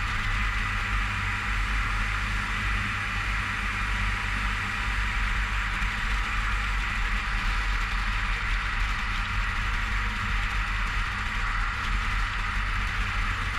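Longboard wheels rolling steadily over pavement, with wind on the microphone: an even hiss over a low rumble.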